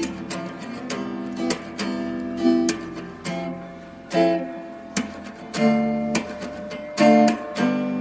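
Background music: acoustic guitar being strummed and picked in a steady rhythm.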